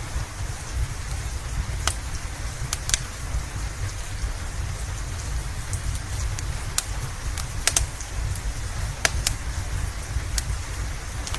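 Steady rain with a low rumble underneath, and irregular sharp crackles and pops from a wood fire in a fireplace, a dozen or so scattered through.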